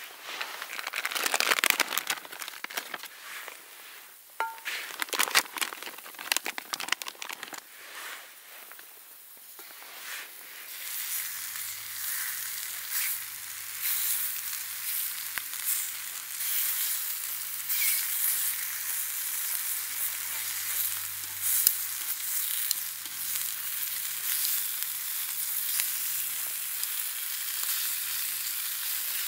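Ham, bacon and king oyster mushrooms frying in a small pan over a campfire. Irregular crackles and clicks come first; from about ten seconds in there is a steady sizzle with scattered pops.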